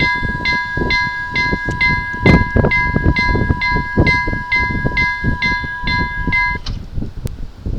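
Vialis E-bell electronic level-crossing bell ringing, a little over two strokes a second over a steady tone, then stopping about six and a half seconds in. A low irregular rumble runs underneath.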